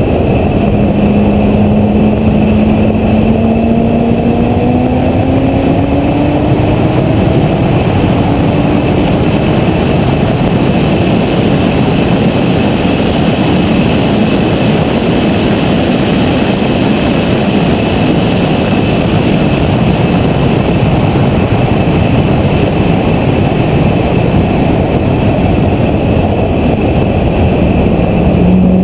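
Corvette ZR1's supercharged V8 under hard acceleration on track, its note rising steadily for the first several seconds, then lost in a loud, steady wind roar on the hood-mounted microphone. The engine note climbs again near the end.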